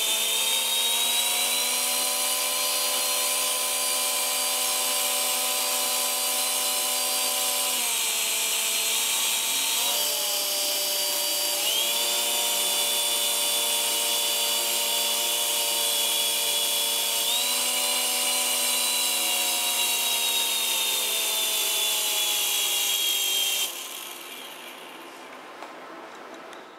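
Small electric motors and rotors of a toy remote-control helicopter whining steadily. The pitch dips and rises several times as the throttle changes, then falls much quieter near the end as the motors ease off.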